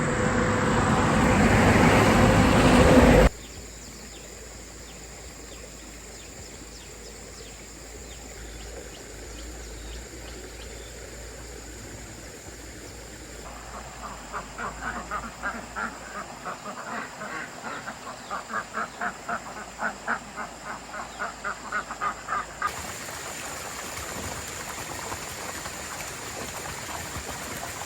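Ducks quacking in a quick run of short calls, about two or three a second, for several seconds in the second half. Earlier, a loud rushing noise swells and then cuts off suddenly a few seconds in.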